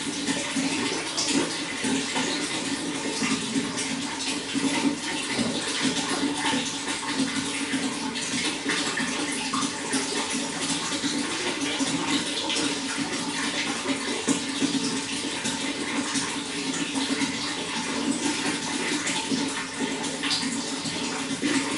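Running water flowing steadily, an even rush with small splashes throughout.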